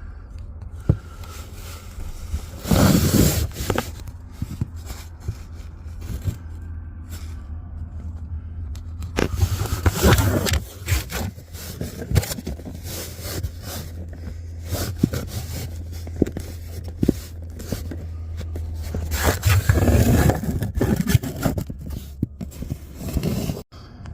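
Scraping and clicking handling noises from hands-on repair work, with three louder rustling bursts, over a steady low hum.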